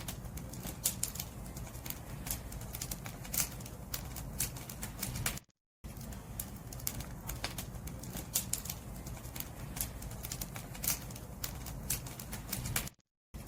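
Firewood burning in a bonfire: irregular sharp crackles and pops over a low steady rumble of the flames. The sound drops out to silence for a moment about five and a half seconds in and again near the end.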